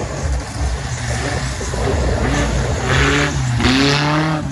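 Off-road race vehicles' engines revving hard, their pitch climbing and falling in a series of sweeps from about two seconds in, with a rush of noise at the loudest point.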